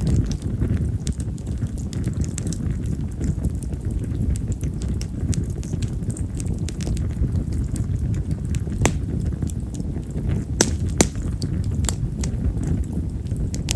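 Wild cherry (yamazakura) firewood burning in an open fire: a steady low rumble of flames with frequent sharp crackles and pops, a few louder snaps from about nine seconds in.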